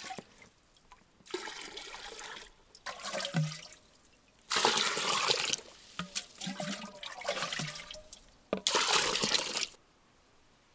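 Water poured into a metal barrel in about five separate gushes, the loudest two about five and nine seconds in, then stopping near the end.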